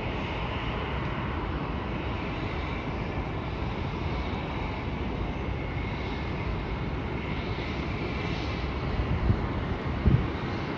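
Boeing 737 jet engines running in a steady, distant roar as the airliner takes off, with a couple of brief low bumps near the end.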